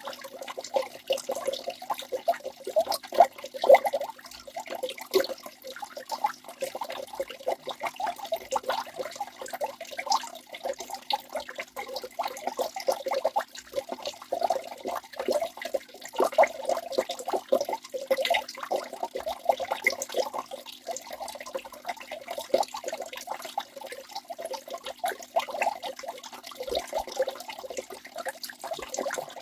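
Waterfall: water splashing and rushing steadily, a dense stream of small splashes with no deep rumble.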